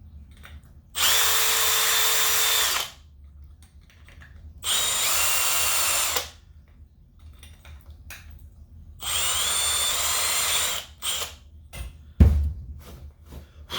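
Power drill run three times in short bursts, boring aluminium out of the heavy side of a Zenoah engine's fan flywheel to balance it. A thump comes about twelve seconds in.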